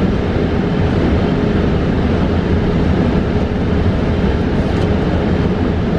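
Inside a New Flyer XE40 battery-electric bus under way: steady road and tyre rumble, with a thin steady tone held through it.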